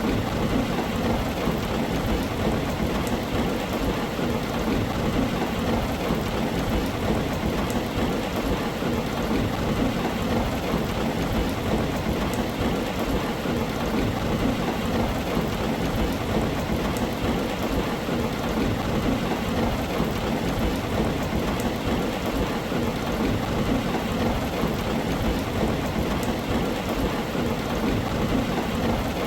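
Heavy rain falling steadily on a tin roof, an even wash of drumming with a deep low rumble underneath.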